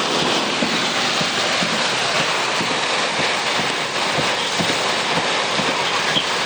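Torrential, wind-driven thunderstorm rain beating on a car's body, heard from inside the cabin: a loud, steady hiss with many small hits.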